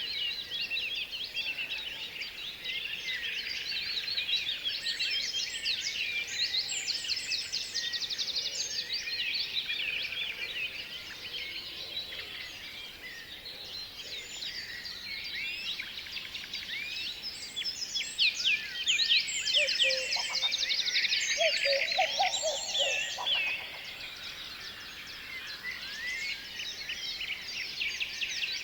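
Many small birds chirping and trilling at once in a dense, overlapping chorus, swelling louder about two-thirds of the way through. A lower, shorter series of calls joins briefly at the same time.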